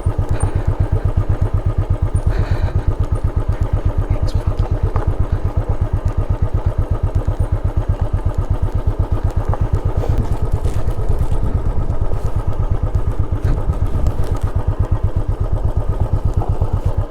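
Motorcycle engine running at low, steady revs, a fast even putter of firing pulses, as the bike is ridden slowly down a rough, steep trail.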